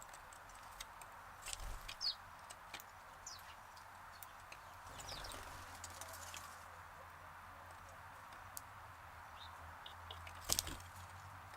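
Faint outdoor ambience with a few short, high sparrow chirps and scattered small clicks and crunches of birds and a chipmunk feeding on seed, and one sharper click near the end.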